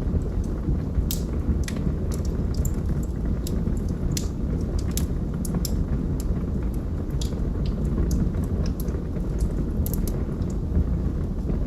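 Log fire burning: a steady low rumble of flames with frequent, irregular sharp crackles and pops from the burning wood.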